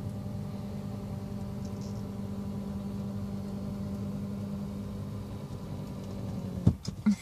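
Car engine idling, a steady hum heard inside the cabin. A couple of sharp knocks near the end.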